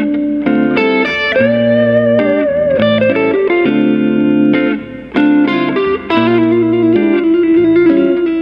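Fender Telecaster played through a Cali 76 compressor pedal into a Two Rock EXO amp: plucked chords and single-note licks. About a second and a half in there is a held, wavering note, and from about six seconds in a long sustained note with vibrato.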